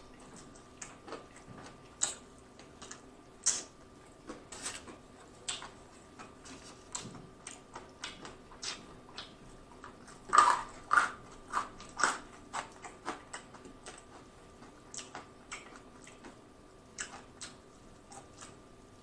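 Close-miked chewing and crunching of crispy fried chicken, with irregular sharp crunches and mouth clicks. A louder run of crunches comes about ten to twelve seconds in.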